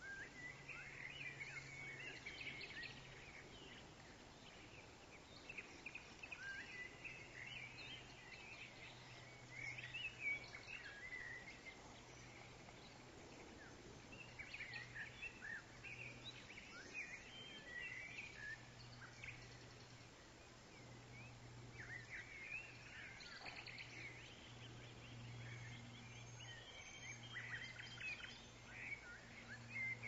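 Faint outdoor birdsong: many small birds chirping and twittering in irregular clusters, over a low steady hum.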